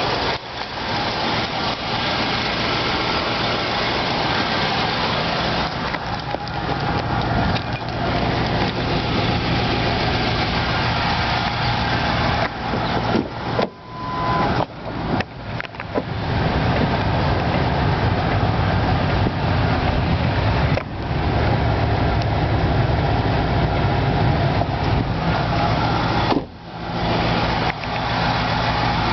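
A 2005 Ford Expedition's 5.4-litre 3-valve Triton V8 idling steadily. The sound dips out briefly a few times near the middle and once near the end.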